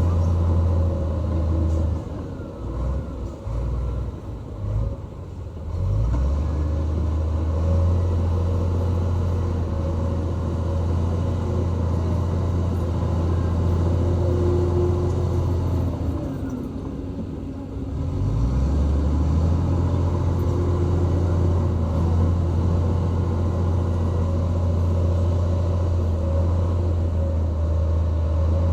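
Heavy earthmoving machine's diesel engine running with a steady low drone. It eases off twice, about two to six seconds in and again around sixteen to eighteen seconds, and rises back up in pitch each time.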